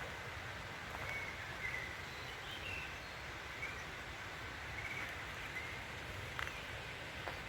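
Outdoor ambience: a few short bird chirps over a steady background hiss.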